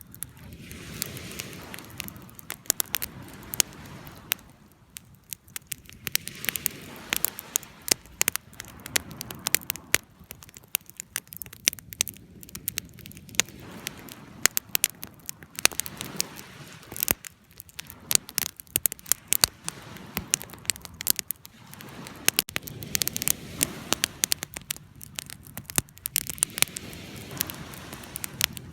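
Wood fire burning and crackling: irregular sharp pops and snaps over a soft rushing of flames that swells and fades every few seconds.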